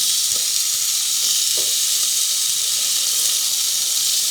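Marinated chicken sizzling on a Hamilton Beach indoor searing grill, a steady, even hiss of frying.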